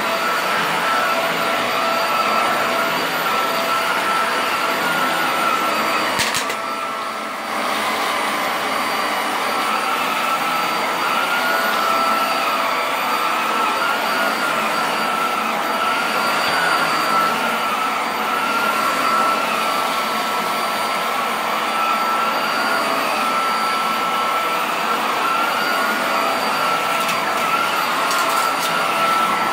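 Hoover vacuum cleaner running steadily, picking up a heavy test mess from shag carpet. It gives a constant motor whine over a rush of suction noise, with a brief dip in loudness about seven seconds in.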